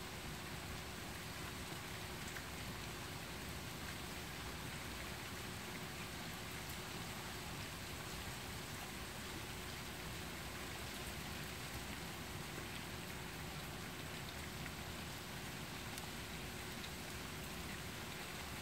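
Steady rain falling: an even hiss with scattered faint drop ticks, and no thunder.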